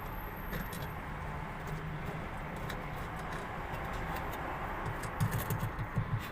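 Small metallic clicks and ticks as the pulley nut is fitted and tightened onto a washing machine gearbox shaft, with a quick run of clicks and knocks near the end, over steady background noise.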